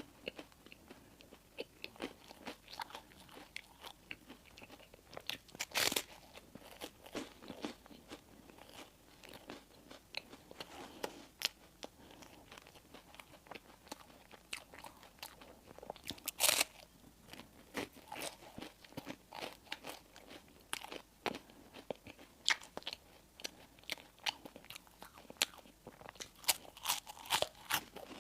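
Close-up eating sounds: a person biting and chewing crispy, toasted bread and fillings, a steady run of small crunches and crackles. Two much louder crunching bites come about six seconds in and again about sixteen seconds in.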